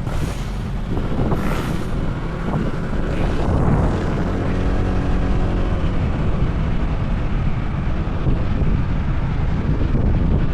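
Honda PCX 160 scooter's single-cylinder engine running under way, with road noise and wind buffeting the microphone.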